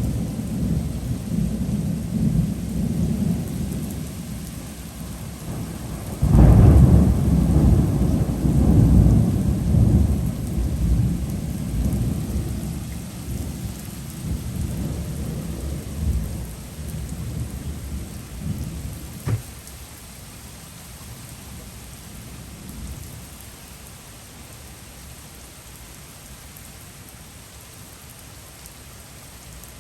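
Thunder rumbling over heavy rain. A loud clap breaks about six seconds in and rolls on for over ten seconds, then dies away, leaving a steady downpour.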